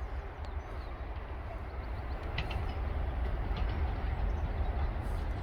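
British Rail Class 44 diesel locomotive 44008 'Penyghent', with its Sulzer twelve-cylinder diesel engine, running with a deep steady rumble as it approaches, growing a little louder.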